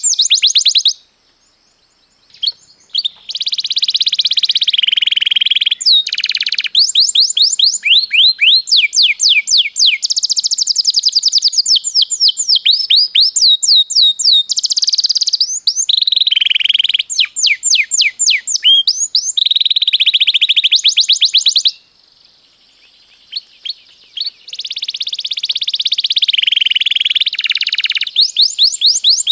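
Domestic canary singing long rolling trills: runs of rapid, repeated high sweeping notes. The song breaks off briefly twice, once about a second in and once about three-quarters of the way through.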